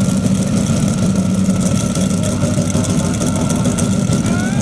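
C6 Corvette's V8 engine idling loudly and steadily, with a faint rising whine near the end.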